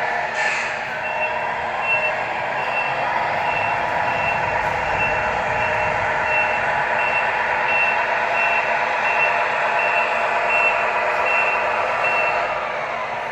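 Truck reversing beeper sounding in even beeps, a little under two a second, over a steady running noise, with a short hiss about half a second in.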